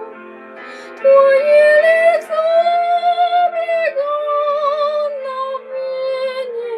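A woman's high voice singing a Russian romance over instrumental accompaniment. After a quieter second of accompaniment alone, she comes in about a second in and holds one long phrase with vibrato, rising and then falling back toward the end.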